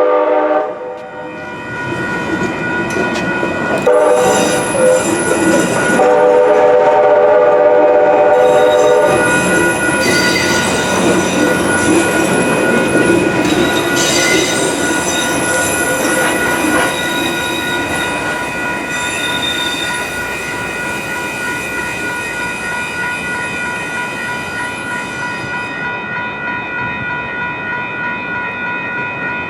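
Light rail train at a grade crossing: a horn blast ends just after the start and two more come between about four and nine seconds in. The train then passes with rumbling wheels and high-pitched wheel squeal, which fades about twenty-six seconds in, while the crossing's warning bell rings on.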